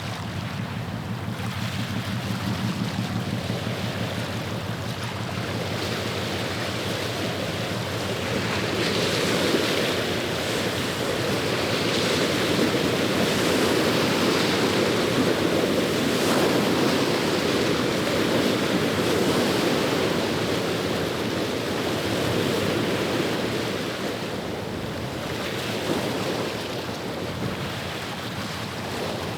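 The low, steady drone of a passing ship's engine fades over the first several seconds. Then water washing on the shore swells for about fifteen seconds and eases, with some wind noise.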